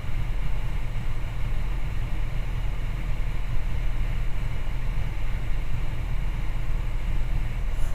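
Steady drone of the Socata TB20's piston engine and propeller, heard from inside the cabin with airflow noise over it, unchanging throughout.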